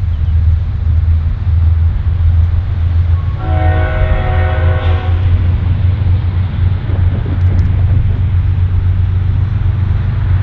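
Norfolk Southern freight train passing with a steady low rumble, and one locomotive horn blast of just under two seconds about three and a half seconds in.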